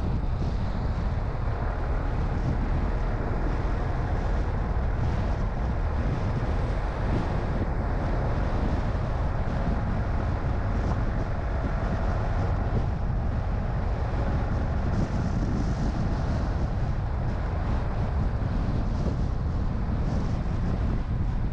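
Car on the move: a steady low rumble of road and engine noise with some wind noise.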